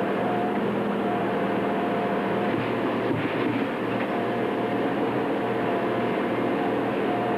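Train running steadily: a continuous mechanical drone with a steady engine hum.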